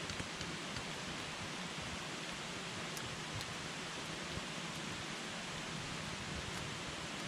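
Wood campfire burning with a steady hiss and a few faint, sharp crackles and pops scattered through it.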